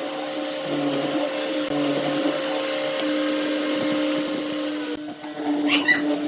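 Electric power tool motor running steadily with a constant hum and a whirring hiss, which changes and dips about five seconds in.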